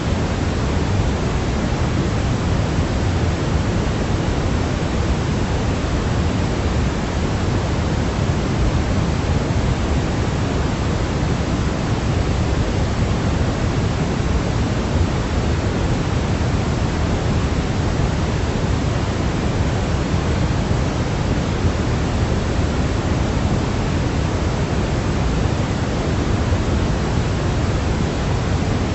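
Steady synthetic sleep noise for babies: a constant, even hiss, fuller in the low end than in the highs, with no changes.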